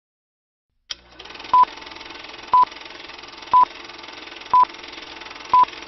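Short, high electronic beep repeating once a second, five times, over a steady hiss that starts with a click.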